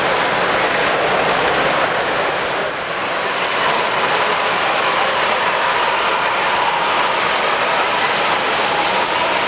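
Steady, loud background din of a crowded exhibition hall: many voices blended together with the running noise of the displays, with a faint steady hum from about three and a half seconds in.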